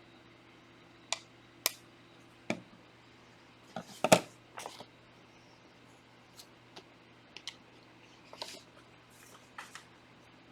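Trading cards and pack wrappers being handled: a scattered series of light clicks and rustles, the loudest about four seconds in, over a faint steady hum.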